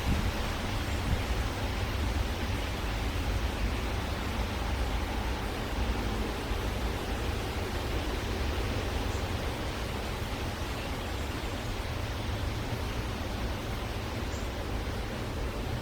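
Steady rushing hiss with a strong low rumble that wavers, with no distinct event standing out.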